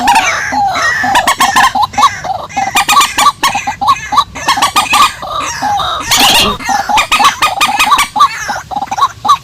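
Purple swamphen and white-breasted waterhen, both rails, calling in a dense run of short, harsh clucking notes, several a second without a break, with a louder squawk about six seconds in.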